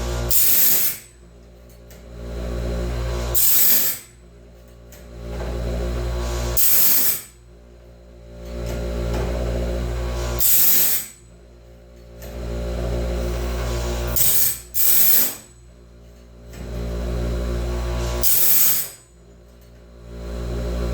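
DIY bandsaw blade sharpener running through its repeating cycle about every three and a half seconds: an electric motor hum swells, then a short, bright grinding burst as the wheel meets a tooth, then the sound drops away before the next tooth.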